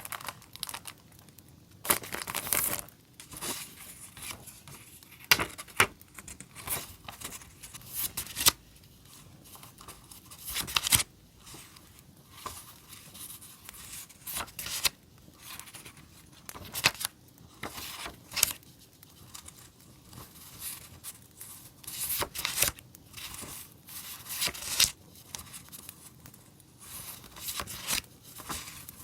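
Paper and plastic stationery packaging being handled by hand: irregular rustling, crinkling and tearing, with sharp louder bursts every second or two.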